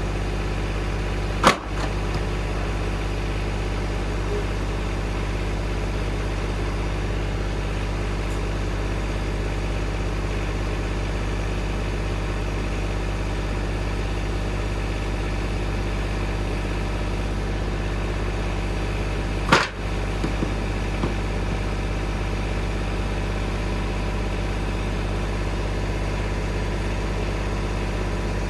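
An engine idling steadily, with two sharp knocks, one about a second and a half in and another about twenty seconds in, the second followed by a few light clicks.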